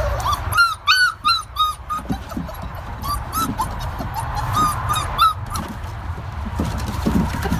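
A dog giving a series of short, high-pitched whines, four or five in quick succession about half a second to two seconds in, then a few more spaced out.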